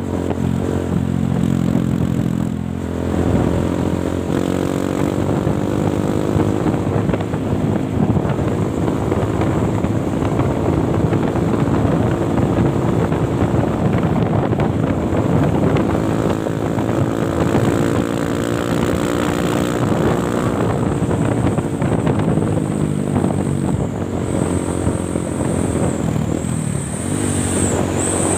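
Truck engine running under load, its pitch drifting up and down, with a thin high whine in the last few seconds.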